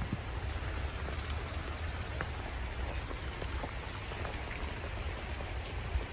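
Snowstorm wind on a street, with a steady low rumble and an even hiss over it, and a few faint scattered ticks.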